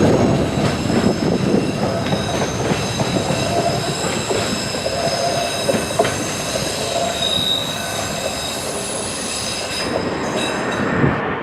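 A train running past with its wheels squealing in several high, steady tones over the rumble of the wheels on the track. The rumble eases, and the squeal dies away near the end.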